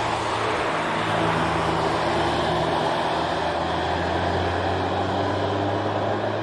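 Hyundai i30 N prototype's turbocharged four-cylinder engine running under way at a fairly steady pitch, with tyre and road noise.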